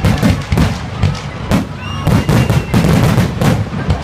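Fireworks display: aerial shells bursting in quick succession, a dense run of loud bangs, about three a second.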